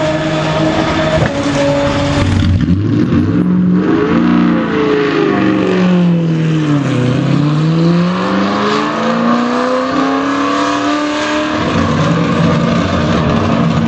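BMW Z4 GT3 race car's V8 engine at racing revs. Its pitch drops to a low point about halfway through, then climbs steadily as the car accelerates, turning rougher and harsher near the end.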